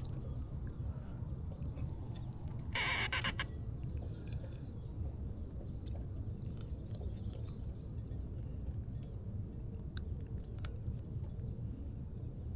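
Insects keeping up one steady high-pitched tone over a low rumble, with a brief noisy burst about three seconds in.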